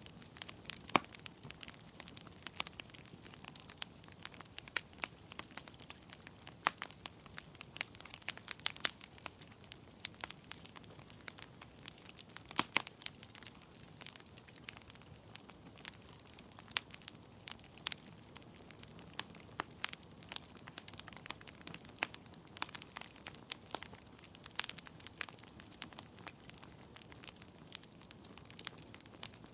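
Wood fire burning in a fireplace: logs crackling with irregular sharp pops and snaps over a faint steady hiss.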